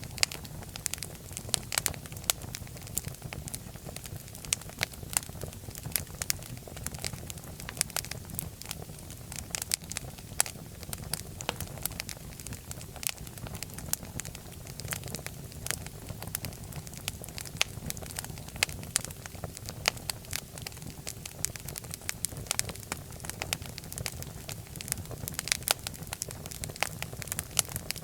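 Wood fire burning in a fireplace, with many sharp crackles and pops over a steady low rumble of the flames.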